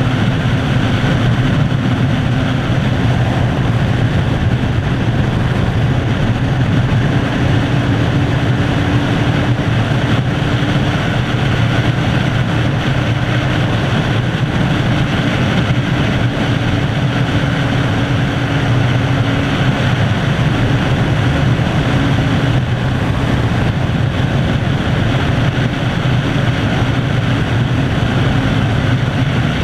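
Kawasaki ZZR600 inline-four motorcycle engine running at a steady highway cruise, its note holding nearly constant with small shifts in pitch, under a steady rush of wind and road noise.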